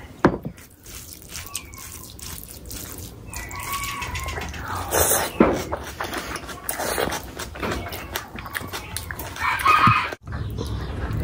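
Close-miked eating sounds: wet chewing, lip smacks and slurps from mouthfuls of curry-soaked rice eaten by hand, in short irregular clicks. There is a sudden cut about ten seconds in.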